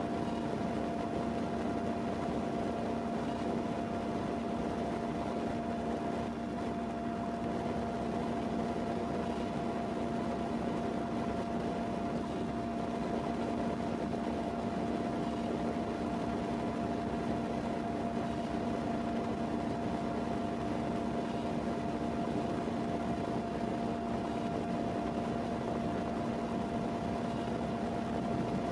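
Steady machine hum with an even hiss and a few constant drone tones, unchanging throughout.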